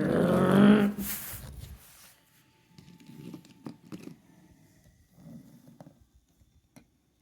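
A person's voice making a drawn-out, wavering vocal sound effect for about a second, then a short breathy burst, followed by faint scattered clicks and knocks of toys being handled.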